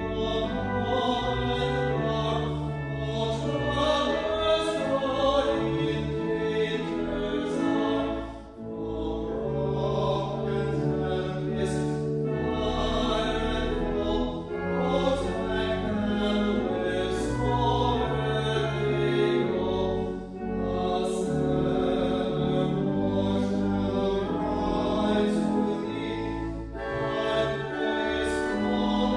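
Choral music: a choir singing with instrumental accompaniment, in phrases broken by short pauses about every six seconds.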